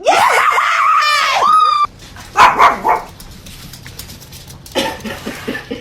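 A dog crying out in a long, wavering, high-pitched vocalization that cuts off abruptly, followed by a few shorter barks or yips.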